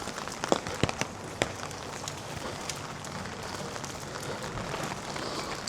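Steady rain falling and pattering on surfaces, with a few sharp taps in the first second and a half.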